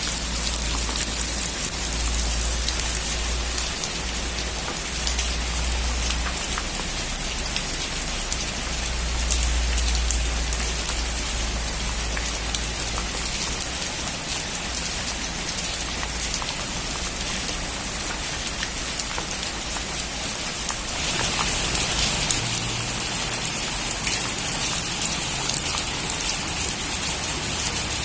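Heavy rain drumming on a metal roof, a steady dense patter of drops, with a low rumble under it for the first ten seconds or so. About three-quarters of the way through it turns suddenly louder and hissier.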